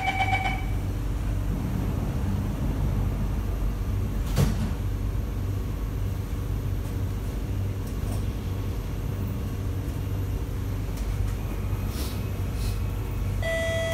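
Inside a Kawasaki & CRRC Sifang C151B train car: a two-tone door-closing chime ends just after the start, and the sliding doors shut with one knock about four seconds in. A steady low hum and rumble follows as the train pulls out. A new chime starts near the end, leading into a station announcement.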